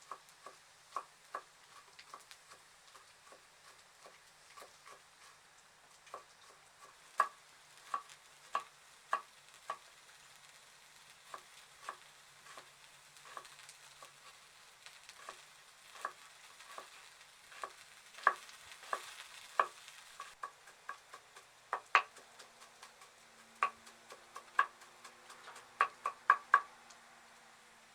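A cooking utensil clicking and knocking against a pan as food is stirred, in short irregular taps, over a faint frying sizzle; the taps come in quicker, louder clusters near the end.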